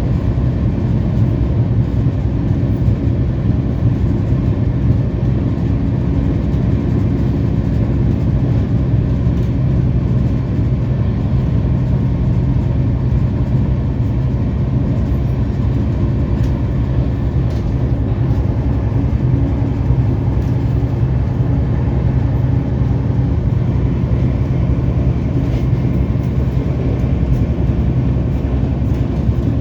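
Shipra Express passenger train running along the track: a steady low rumble of coach and wheels on the rails, unbroken throughout.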